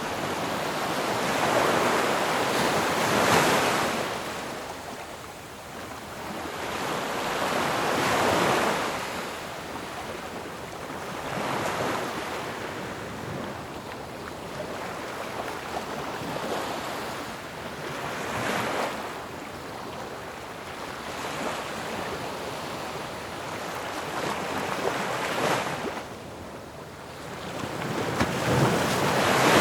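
Ocean waves breaking on a shore, the surf noise swelling and fading as each wave crashes, about every four to seven seconds, the loudest surges near the start and at the very end.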